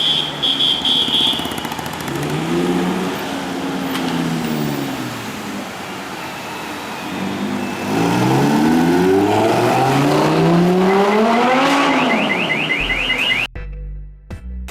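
Supercar engine revving once, then accelerating hard, its pitch climbing steadily for about four seconds before dropping off. Electronic music cuts in abruptly near the end.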